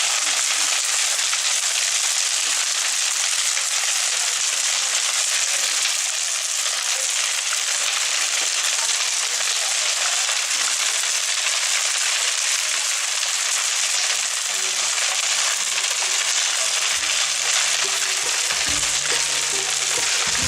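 Large bonfire burning with a steady dense crackle and hiss. Faint music comes in near the end.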